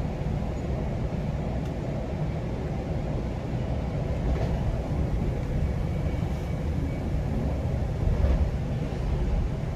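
GO Transit commuter train running along the track: a steady low rumble of wheels on rail, with a few faint clicks.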